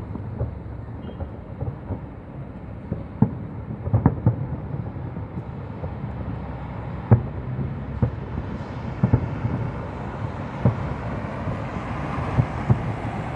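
Fireworks going off: many sharp bangs at irregular intervals over a steady low rumble, the strongest about four and seven seconds in.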